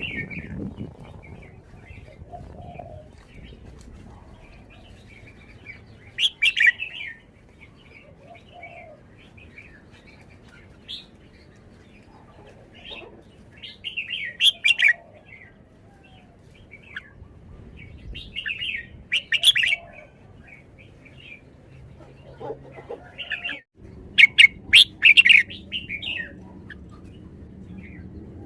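Red-whiskered bulbul singing: four loud, short warbled phrases several seconds apart, with softer chirps in between.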